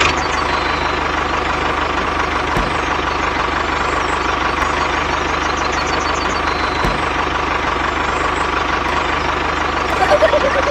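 Tractor-style engine running steadily at idle, with a fast, even knocking beat.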